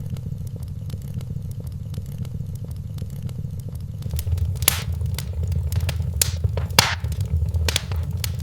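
Wood fire in a fireplace crackling over a steady low rumble, with sharp pops that come more often and louder in the second half.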